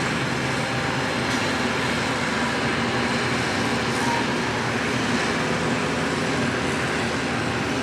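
Steady rushing noise of wind on the microphone on a cruise ship's open balcony as the ship gets under way, with no change or separate events.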